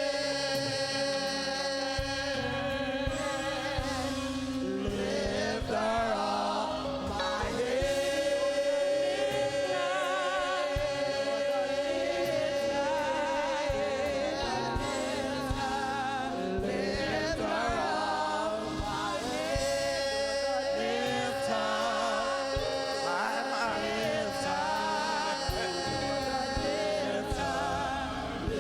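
Gospel choir singing with instrumental accompaniment, sustained notes with vibrato over a held organ-like chord.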